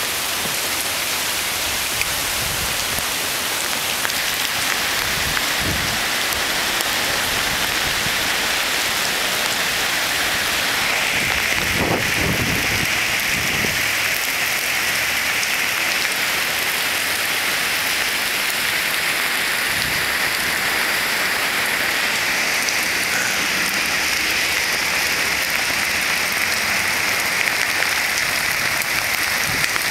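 Heavy rain falling steadily, a dense, continuous hiss of drops on surfaces, growing a little brighter about a third of the way in.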